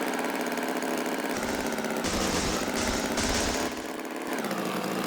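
A motor engine running steadily, with a burst of hiss about two seconds in that lasts around a second and a half.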